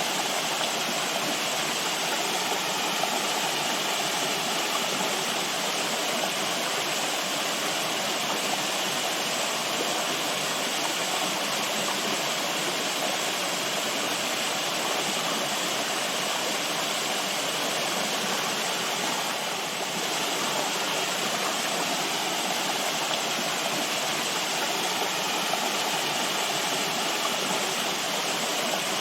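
Running water rushing steadily, like a stream or small waterfall, with an even, unbroken flow.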